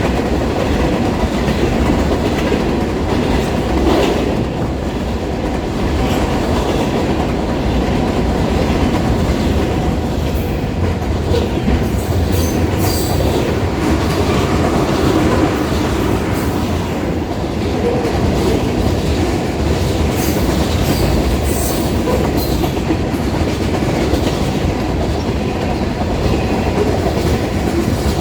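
Union Pacific freight train's cars rolling past, a steady loud rumble with the clickety-clack of wheels over the rails. Short high wheel squeals come now and then in the middle.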